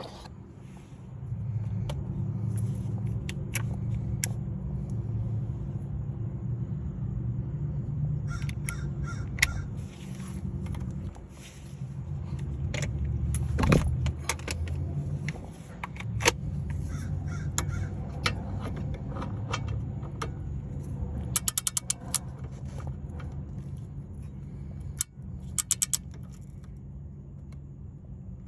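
Hand tools working on a car's brakes: scattered metal clinks and knocks, and two short runs of rapid ratchet-like clicking near the end, over a steady low hum.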